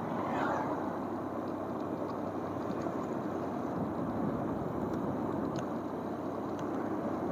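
Steady wind and road rush of a motorcycle on the move, with a brief falling whoosh about half a second in.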